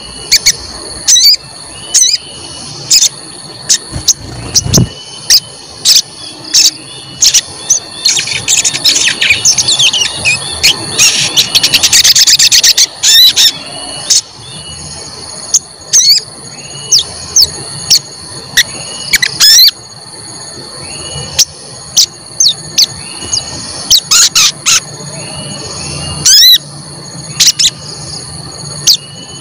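Sogon (crimson sunbird) calling with sharp, high 'cuit cuit' chirps repeated again and again, with a fast rapid run of notes about a third of the way in. A steady high-pitched whine runs underneath.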